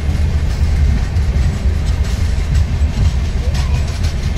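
Passenger train coaches rolling slowly along the track: a steady low rumble with faint wheel clicks.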